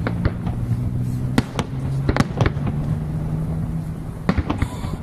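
Fireworks going off: a string of sharp bangs and pops at irregular intervals, over a steady low hum.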